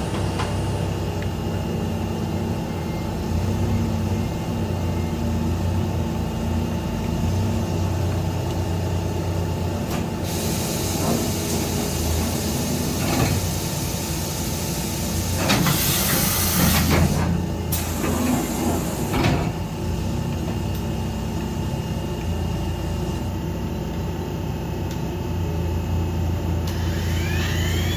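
Okuma MA-600HII CNC horizontal machining center running under power: a steady machine hum with several short bursts of hissing noise midway, and a rising whine near the end.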